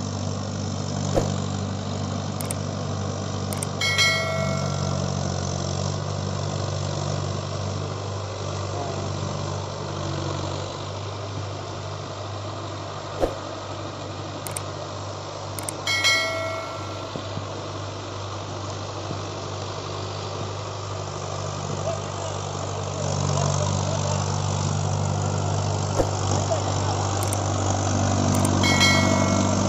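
Mahindra Arjun Ultra 555 DI tractor's diesel engine running steadily. A short, high chirp sounds three times, about twelve seconds apart, and a sharp click falls between each pair.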